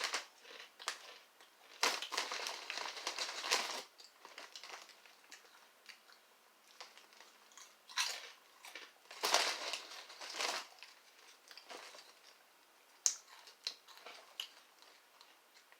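Snack bag crinkling in several separate bursts as the crisps are handled, followed by a few short sharp crackles near the end.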